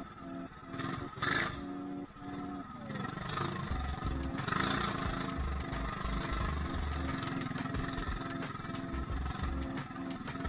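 Single-cylinder mini bike engine running steadily, with its pitch dropping briefly about three seconds in. Wind buffets the microphone from a few seconds in.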